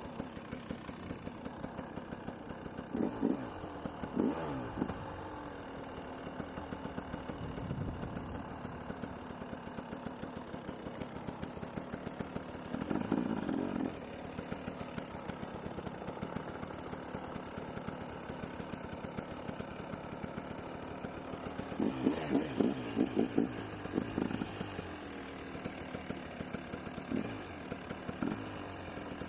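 Dirt bike engine idling steadily, with several short blips of the throttle that make the pitch rise and fall back, a cluster of them about two-thirds of the way through.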